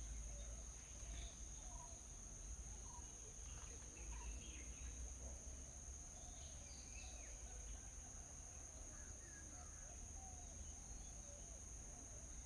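Faint, scattered chirps and short calls of small birds over a steady, high-pitched insect drone, with a low rumble underneath.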